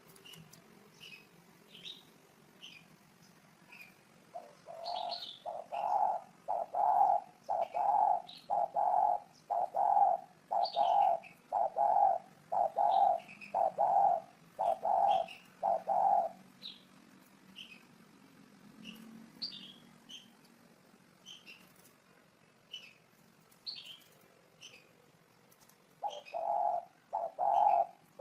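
Spotted dove cooing: a run of about a dozen evenly spaced coos, roughly one a second, that stops for about ten seconds and then starts again near the end. Short high chirps from small birds sound throughout.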